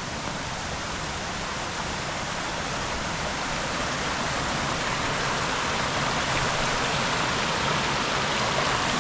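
Rushing stream water: a steady wash of noise that grows gradually louder.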